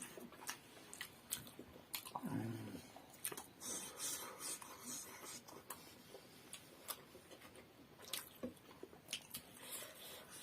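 Faint chewing and mouth sounds of people eating momo dumplings: scattered wet clicks and short smacks. There is a brief low voiced hum a little over two seconds in.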